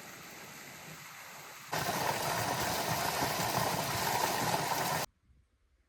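A steady rushing noise, moderate at first, that steps up suddenly to much louder about a second and a half in, then cuts off abruptly about five seconds in.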